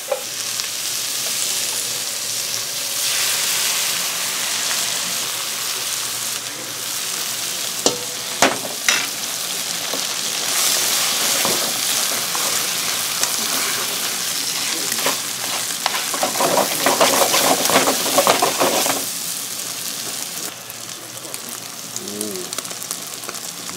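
Beaten eggs and sliced onion sizzling in a frying pan as they are stirred with chopsticks. There are a few sharp clicks about eight seconds in, and a louder, busier stretch of stirring and sizzling from about sixteen to nineteen seconds, after which the sizzle softens.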